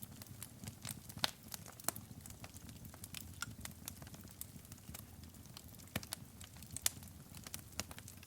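Wood fire burning in a fireplace: a soft low roar of flames with irregular sharp pops and crackles from the burning logs.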